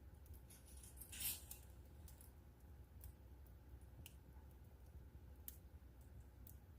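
Wood fire crackling in a fireplace: faint, scattered pops and snaps, with one louder crackle about a second in, over a low steady hum.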